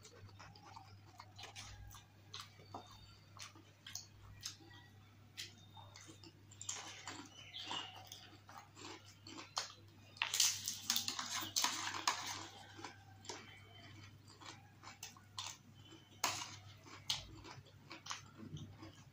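Close-miked chewing of dahi puri chaat, with many small mouth clicks. About ten seconds in, a whole dahi puri (a crisp hollow puri shell filled with yogurt) goes into the mouth, and there is a louder stretch of crunching lasting about two seconds.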